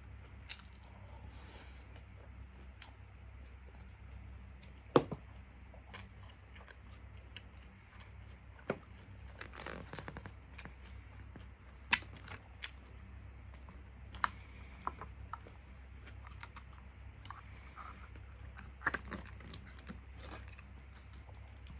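Scattered light clicks and taps of takeout food containers and utensils being handled, a dozen or so spread irregularly, the sharpest about 5 and 12 seconds in, over a steady low hum.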